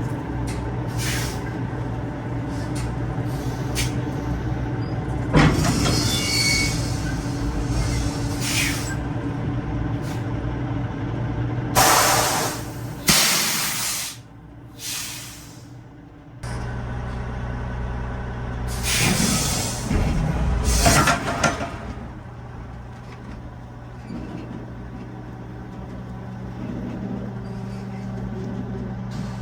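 Semi truck's diesel engine running steadily, with several short, loud hisses of released air from its air brakes; the engine hum drops away briefly about halfway through, then returns.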